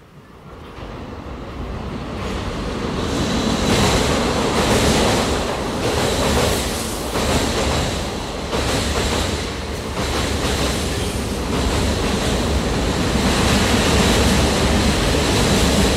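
Cabin noise inside a late-1970s JNR Yokosuka Line electric train. Rumble and rail noise swell over the first few seconds as the train picks up speed, then keep running loud, rising and falling, with a faint high steady tone through it.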